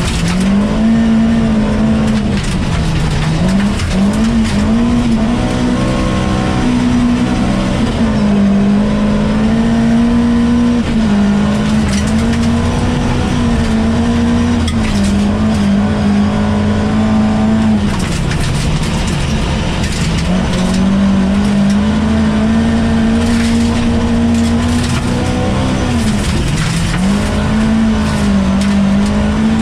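Volvo PV 544 rally car's four-cylinder engine, heard from inside the cabin, running hard at high revs on a gravel stage. Its pitch drops several times and climbs back. Sharp clicks are scattered through it.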